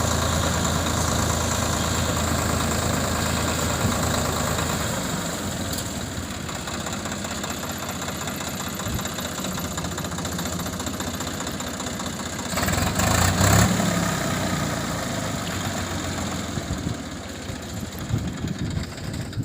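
A motor running steadily with a low hum that drops in level about five seconds in. A louder, rougher passage of about a second and a half comes near the middle.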